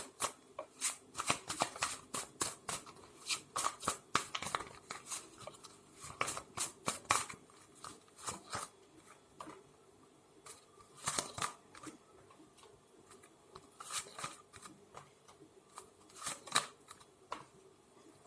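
A deck of tarot cards being shuffled and handled: a run of irregular crisp card snaps and flicks, thick in the first half and thinning out later.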